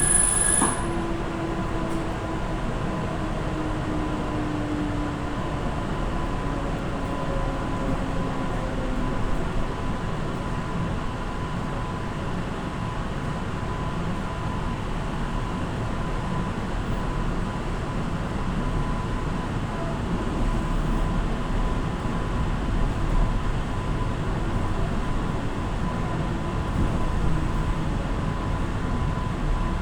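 Suburban electric train running, heard from inside the carriage: a steady rolling rumble with a thin steady tone, and a slowly falling whine over the first several seconds.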